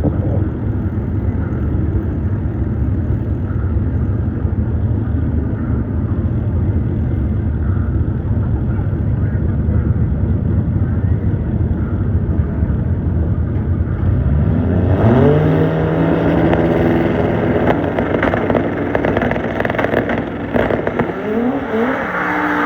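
Drag cars rumbling at the start line, then launching about 14 seconds in: engine pitch climbs steeply, drops at a gear change and climbs again as they accelerate away.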